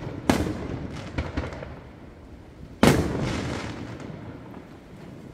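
Aerial fireworks bursting: a sharp bang about a third of a second in, a few lighter cracks, then the loudest bang near three seconds in, each dying away over about a second.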